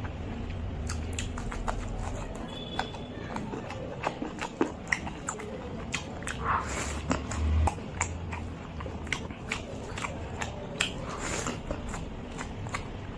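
Close-up eating sounds of a person eating rice mixed with curry by hand: wet chewing with many small mouth clicks, and squelching as rice is squeezed in the fingers. A brief low thump about halfway through.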